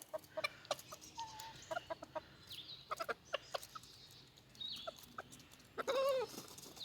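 Backyard chickens clucking softly among many short sharp taps, with a few brief chirps and one longer wavering call about six seconds in.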